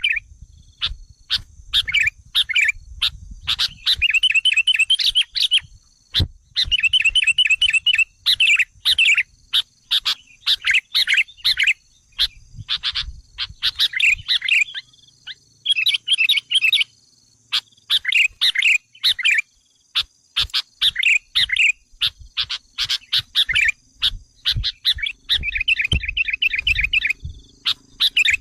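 Sooty-headed bulbuls calling excitedly: rapid bursts of sharp chattering notes and short quick trills, stopping and starting every second or two, as used in a lure call to provoke wild bulbuls.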